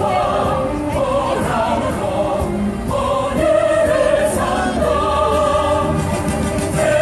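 Music with a choir singing a melody in held notes.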